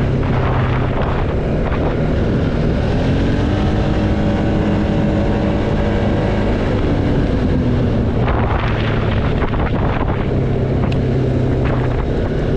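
ATV engine running while riding, its pitch climbing about two to three seconds in and easing off around seven seconds, with wind buffeting the microphone.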